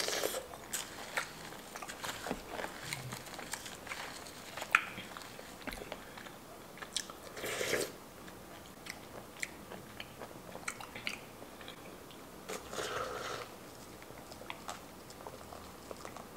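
Close-miked eating of halo-halo, shaved ice with sweet beans and jellies, from a plastic spoon: chewing with many small wet mouth clicks. A few louder mouthfuls come near the start, about eight seconds in, and about thirteen seconds in.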